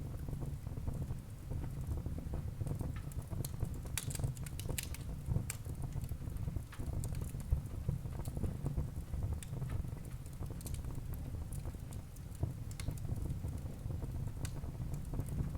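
Wood fire burning in a fireplace: a steady low rumble of the flames with irregular sharp crackles and pops from the burning logs, busiest about four to six seconds in.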